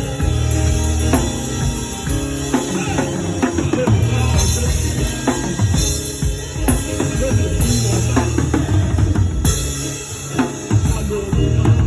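Live drum kit played fast over a praise band, with busy snare and tom fills, rimshots and kick drum, and a steady bass line underneath.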